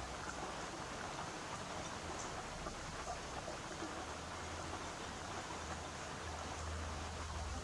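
Steady rain with running and dripping water, an even hiss flecked with faint drop ticks, over a low rumble that comes and goes.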